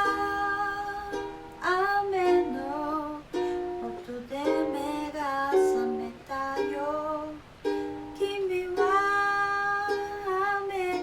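Ukulele accompaniment with a voice singing a melody line of a Japanese song.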